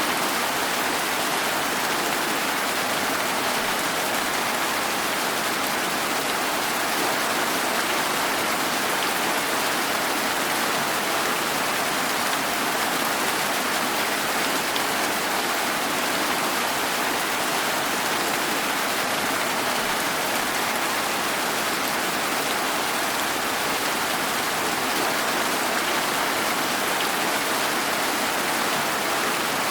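Steady rain falling, an even, unbroken hiss with no distinct drops, thunder or other events.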